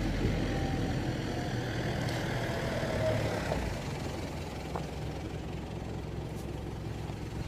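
A car engine idling close by: a steady low hum that eases off a little about halfway through.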